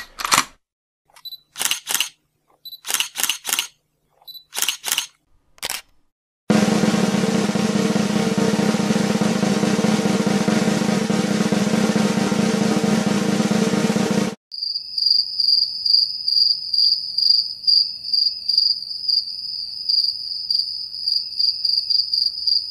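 A series of short clicks in groups of one to three, then a snare drum roll lasting about eight seconds that stops abruptly, then crickets chirping in a fast, steady, high-pitched pulse.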